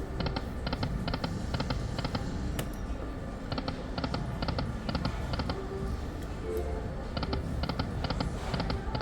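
Poker machine reels spinning and landing, a run of quick sharp clicks as the reels stop one after another, repeating spin after spin over a steady low background rumble, with a few faint electronic tones.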